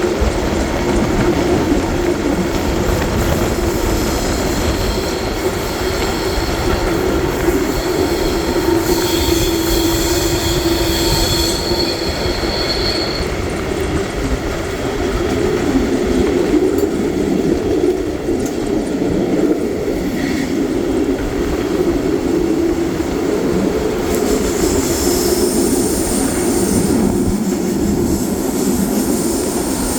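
Historic passenger train running along the track with a steady rumble of wheels and carriages. High-pitched wheel squeal comes in a few seconds in and fades before the middle, then returns near the end.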